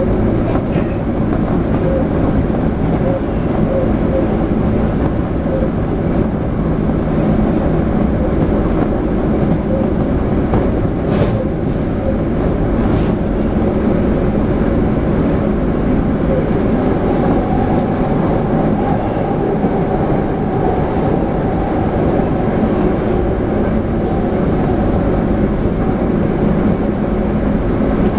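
Running noise heard inside a Toei 5300-series electric train car under way: a steady, loud rumble of wheels on rail with a hum from the running gear. A higher hum comes in around the middle and fades again.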